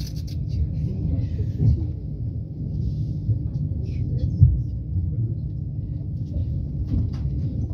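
Low, steady rumble of a passenger train carriage rolling slowly over the rails, heard from inside the carriage, with faint scattered clicks and knocks.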